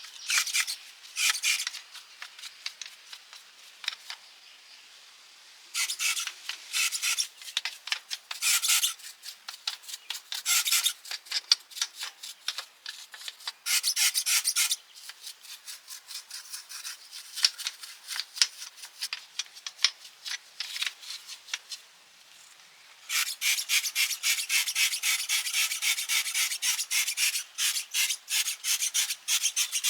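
Hand-worked abrasive scrubbing strokes, like a wire brush or file rasping across a surface. The strokes come in short bursts with pauses, then run on as a steady stream of quick strokes for the last quarter.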